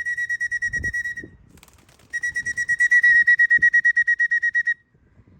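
Pea whistle blown in two long trilling blasts, a steady high note warbling about ten times a second, with a short break between them.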